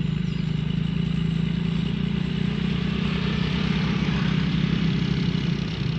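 Engine running steadily at a constant speed, with a pulsing low throb.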